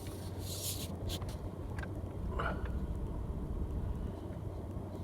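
Car engine running at low speed, a steady low hum heard from inside the cabin while the car is backed up to turn around, with a few brief hisses over it.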